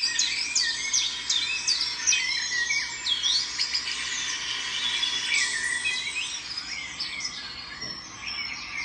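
Several birds chirping and singing together, many short calls and sweeping whistles overlapping, thinning out toward the end.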